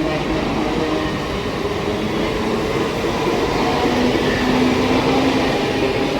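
Train passing at speed: a loud, steady rumble of wheels on the rails with faint tones drifting in pitch.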